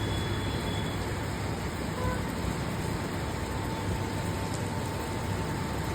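Steady rain falling in a thunderstorm: an even hiss of rain with a low rumble underneath.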